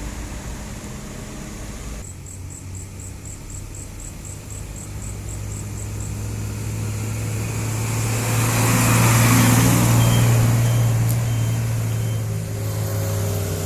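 Diesel engine of a heavy truck-trailer hauling sugarcane up a hill, a steady low drone that grows louder as it approaches, peaks about two thirds of the way through as it passes, then eases off.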